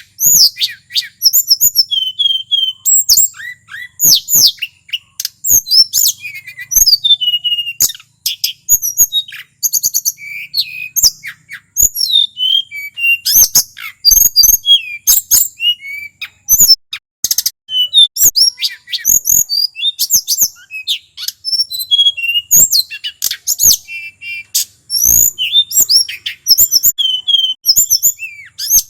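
Male tledekan gunung singing continuously: a rapid, varied stream of high whistled notes, chirps, glides and trills, with scattered sharp clicks between phrases.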